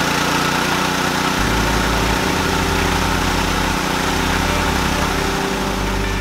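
MAHKOTA KD-580 S rice milling machine running steadily under its petrol engine.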